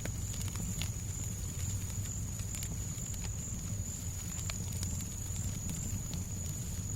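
Fireplace crackling: scattered sharp pops and snaps over a steady low rumble and a thin steady high tone.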